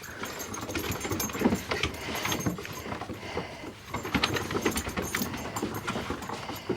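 A Boxer dog and his puppies playing: a busy run of scuffling and clicking, with a few brief faint squeaks scattered through.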